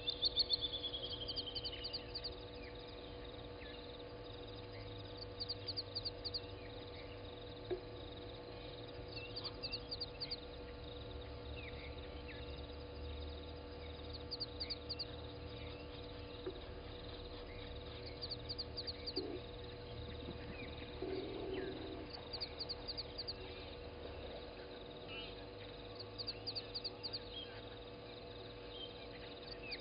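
Animal calls at a dawn waterhole: short, rapid high-pitched trills repeat every few seconds among scattered faint chirps. There is a falling whistle at the very start, and a steady low electrical hum runs underneath.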